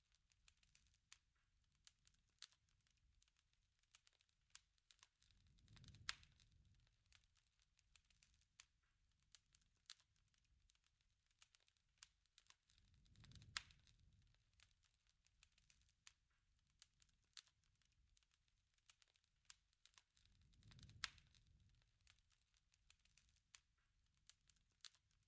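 Quiet crackling wood fire, many irregular pops and snaps, with a low rumbling swell of the flames about every seven to eight seconds.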